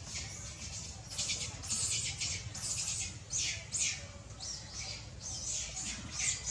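Baby macaque squealing: a quick run of about ten shrill, raspy squeals, roughly two a second, several of them falling in pitch.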